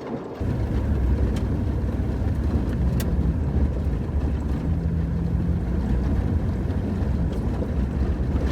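Vehicle driving on a gravel road: a steady low rumble of tyres, engine and wind that comes in suddenly about half a second in, with a few sharp ticks.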